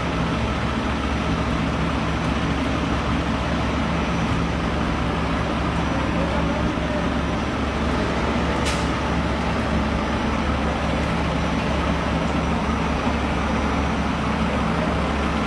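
Large diesel truck engine running at a steady idle, a constant low rumble with no revving.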